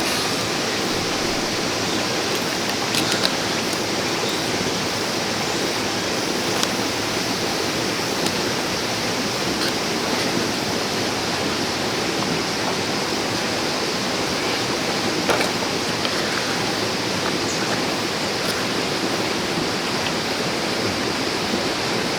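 A clear mountain stream rushing steadily over rocks, with a few faint clicks here and there.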